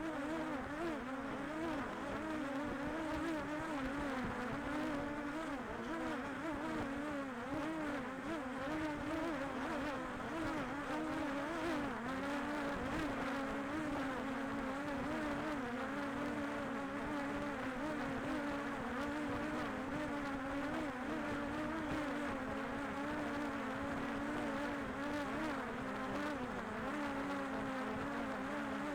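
DJI Air 2S drone's propellers buzzing steadily, the pitch wavering slightly up and down.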